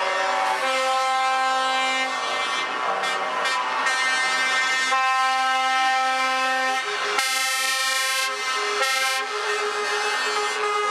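Truck air horns sounding almost without pause, several held horn notes of different pitches overlapping and giving way to one another.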